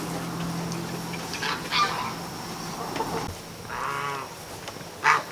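Farm animal calls: a few short chirps, then one bleat-like call lasting under a second about four seconds in, and another short call near the end.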